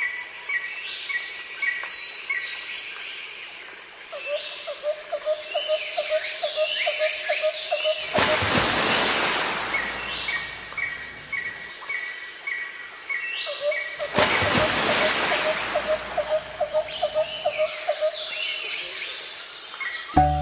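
Many small birds chirping and trilling, with a rapid pulsing trill repeating low in the mix. Two bursts of rushing noise come about 8 and 14 seconds in.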